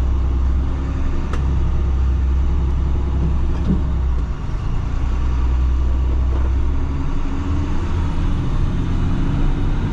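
A heavy vehicle's engine running steadily under way, with a deep low drone and rumble; the drone shifts about four seconds in.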